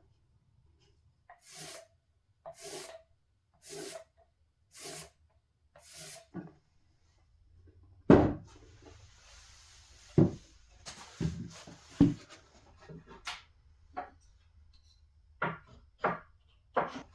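Wood rubbed in five even strokes about a second apart, then a loud knock followed by several lighter knocks and short scrapes.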